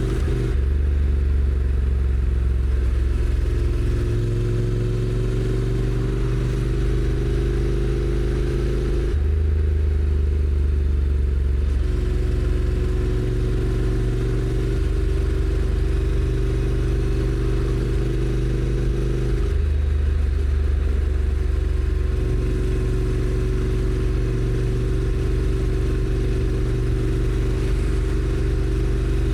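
Honda NC750X parallel-twin engine running under way on the motorcycle, its pitch climbing slowly and then stepping abruptly several times as the dual-clutch gearbox changes gear.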